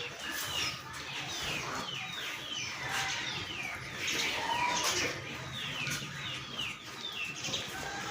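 Small birds chirping busily, many short falling chirps overlapping several times a second, over a faint low hum.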